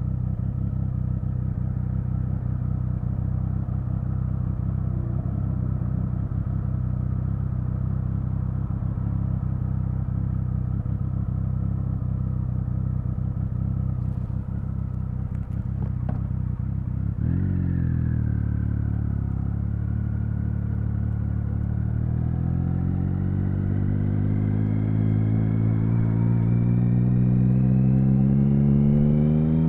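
Triumph Speed Triple 1050's inline three-cylinder engine running at a steady low speed. A bit over halfway through its note changes abruptly, then the revs climb steadily under acceleration to the end.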